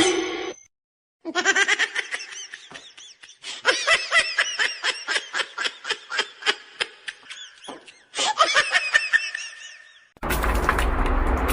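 Hearty laughter, a long run of quick ha-ha pulses with a brief break near the end. It then cuts abruptly to a steady rushing noise.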